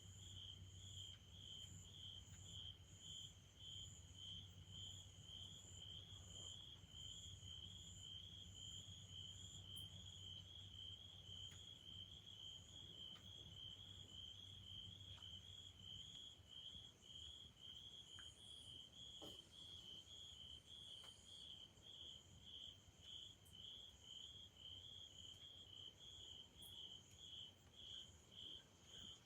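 Faint cricket chirping, a steady high trill pulsing about twice a second, over a low hum that fades out about halfway through.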